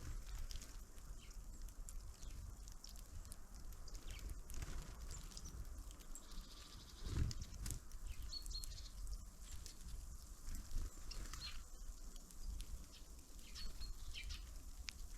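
Small birds at a winter feeder giving a few short, high chirps, with faint light clicks and one soft thump about seven seconds in.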